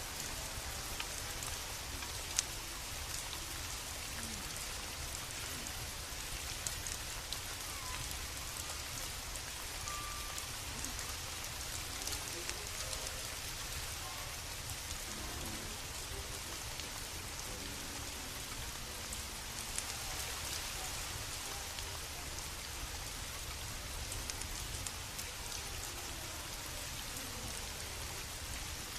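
Steady rain falling, a continuous even hiss, with scattered sharp crackles and pops from a burning wood fire, one louder pop about two seconds in.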